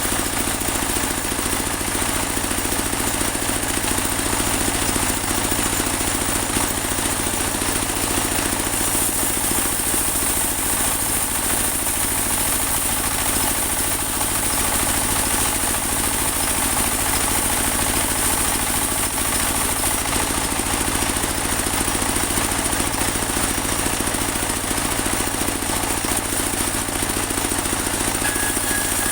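Portable bandsaw sawmill running steadily, its engine drone mixed with a constant high hiss, while sawing a large teak log.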